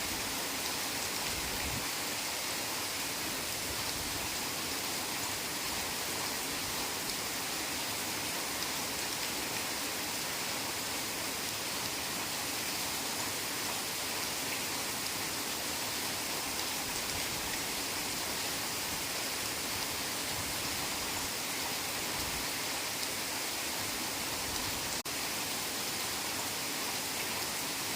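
Heavy rain falling steadily, an even, unbroken hiss, with one momentary dip in level near the end.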